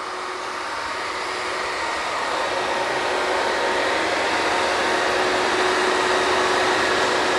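Drilling rig machinery running: a steady mechanical hiss and hum with a few held tones, growing steadily louder.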